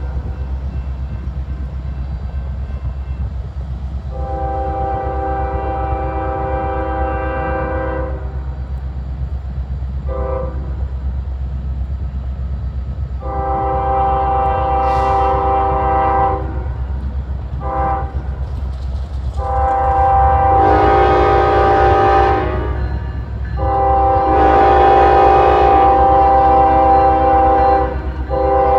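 Locomotive multi-chime air horn sounding about six long and short blasts over the steady low rumble of the train, getting louder as it approaches.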